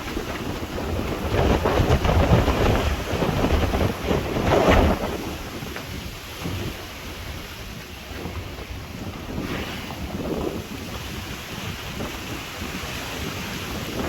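Wind buffeting the microphone outdoors, a low rumbling hiss that gusts loudest about two seconds in and again about four and a half seconds in, then eases to a steadier rush.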